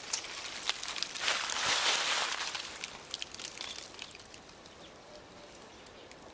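Dry leaves and twigs rustling and crackling with many sharp little clicks, loudest over the first two and a half seconds, then dying down to a faint outdoor hush.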